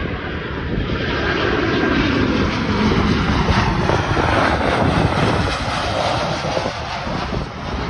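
Airliner passing by, its engine rush swelling to a peak and then easing off, with wind gusting on the microphone.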